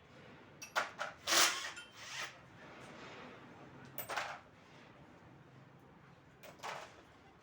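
A few short metallic clinks and scrapes, as of tools or engine parts being handled, about five in all with the loudest about a second and a half in.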